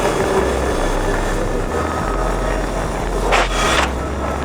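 Dirt bike engine running while being ridden, with wind rushing over the microphone, and a brief louder rush about three and a half seconds in.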